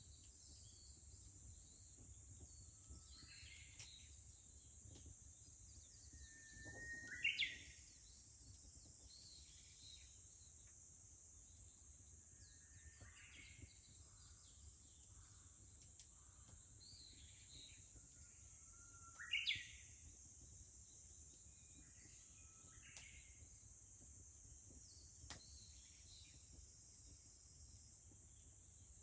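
Faint rural dawn chorus: a steady high drone of insects throughout, with a Japanese bush warbler singing twice, each time a held whistled note breaking into a quick rising flourish. Fainter bird chirps come in between, and a few single sharp ticks come near the end.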